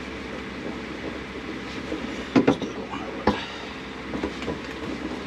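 Metal seat belt hardware being handled and fitted into the car's interior: a few sharp knocks and clinks, two close together about two and a half seconds in and another a second later, over steady background noise.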